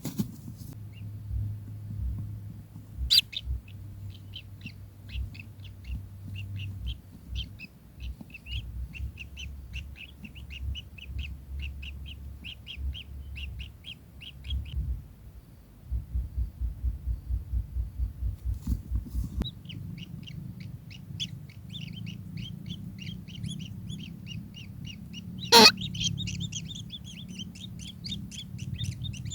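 Kingfisher calling in long runs of quick, short, repeated notes, about four or five a second, with a pause in the middle. Low rhythmic thumps lie underneath, and there are two sharp knocks, the louder one near the end.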